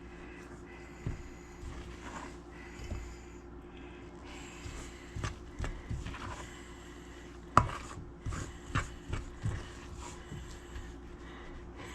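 Scattered knocks and taps of kitchen work on a counter, with a steady faint hum beneath; the sharpest knock comes a little past halfway.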